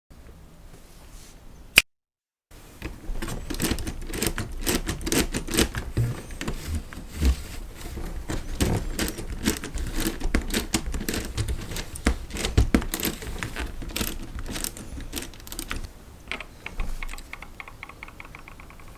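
Hard plastic Lego Technic parts clicking and rattling irregularly as they are handled, with a single sharp click about two seconds in. Near the end comes a quick, evenly spaced run of light ticks.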